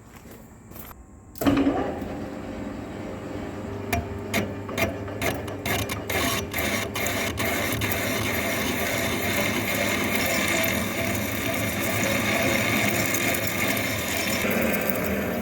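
A workshop machine tool starting with a sudden loud onset about a second and a half in, a series of sharp clicks, then running steadily with a mechanical whirring noise.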